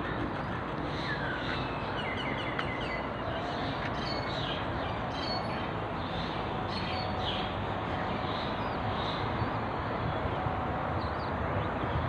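Birds chirping in short, high calls and quick trills, thickest in the first two-thirds and again near the end, over a steady background rumble.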